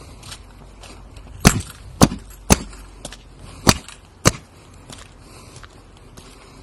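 Five sharp knocks: three about half a second apart, then after a short pause two more.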